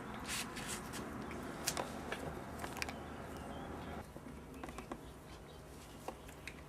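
Young puppies scuffling about, with scattered small clicks and scratches of claws and paws on the floor over a steady low background hum that drops a little about four seconds in.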